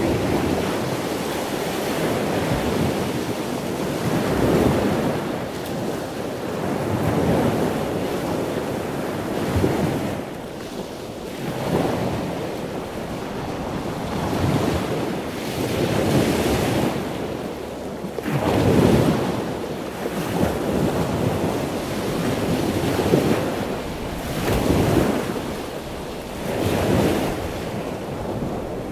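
Ocean-surf ambience: a continuous wash of water noise that swells and ebbs every two seconds or so, like waves breaking and drawing back.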